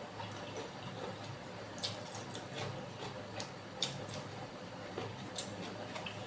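Close-miked, wet chewing and mouth sounds of someone eating bakso meatballs with seblak, with irregular sharp smacks and clicks a few times over the stretch.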